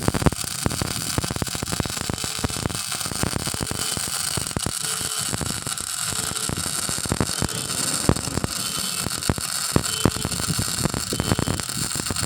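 MIG welding arc running: a continuous crackling hiss with dense, irregular sharp pops as the wire feeds into the weld pool.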